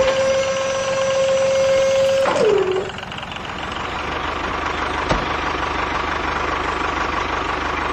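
A steady high tone for about two and a half seconds that bends down in pitch and cuts off. Then a small motor runs steadily with a faint whine, growing a little louder.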